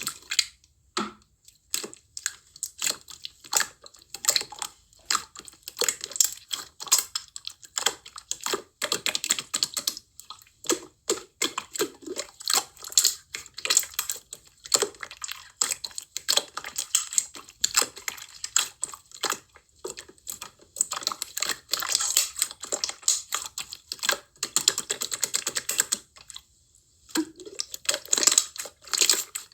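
Slime being squeezed, pressed and stretched by hand, giving a dense, irregular run of sticky clicks and crackling pops with a few short pauses.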